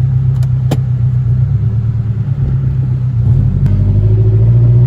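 Car engine running with a loud, deep, steady drone; a little past three seconds in it grows louder and its note climbs as the car accelerates.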